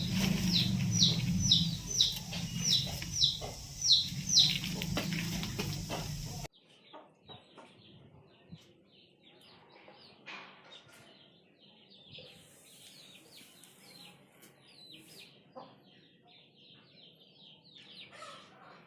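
Chickens calling with short, high-pitched calls that fall in pitch, about two a second, over a low hum. About six seconds in, the sound cuts off suddenly to a quieter stretch of many rapid short high calls.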